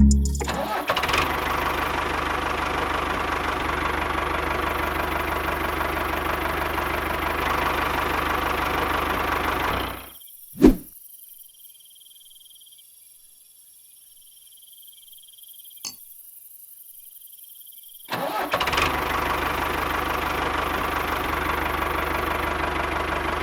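Mini water-pump engine running steadily; it cuts out about ten seconds in, with a sharp click just after and a smaller one near sixteen seconds, then runs again from about eighteen seconds.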